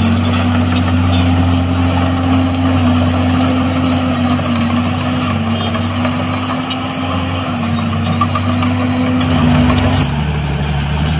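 Diesel engine of heavy earthmoving machinery running steadily, then its revs drop to a lower pitch near the end.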